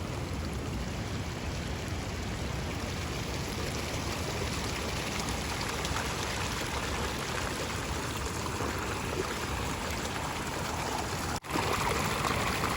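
A steady rushing noise with no speech. About eleven seconds in it cuts off abruptly and comes back louder.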